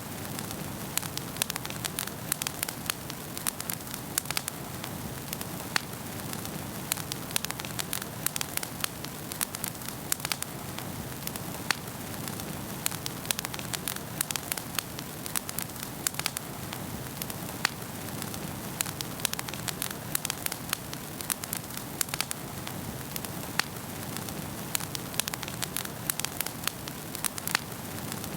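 Wood fire burning in a fireplace: a steady low rush of flames with frequent irregular sharp crackles and pops.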